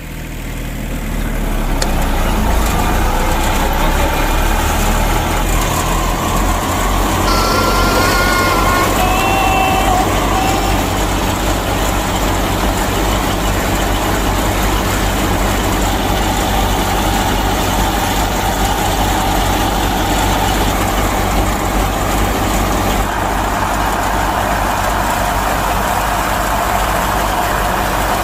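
Large engine idling steadily with a low rumble, with a few short high tones about seven to ten seconds in.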